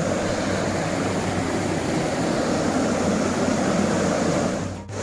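River water rushing steadily, with a brief drop in level just before the end.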